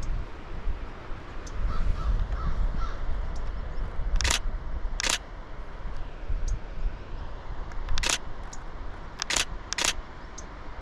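Canon Rebel T7i DSLR shutter firing single frames: six sharp clicks at uneven spacing, two of them about half a second apart, over a low wind rumble.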